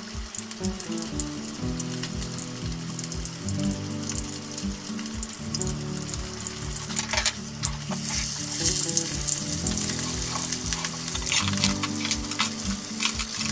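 Breaded ham-and-cheese cutlets shallow-frying in oil in a frying pan, sizzling and crackling steadily. About seven seconds in the sizzle grows louder and busier, as the cutlets are turned over.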